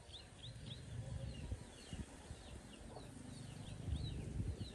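Many short, high bird chirps repeating in quick succession over a low rumble of outdoor background noise.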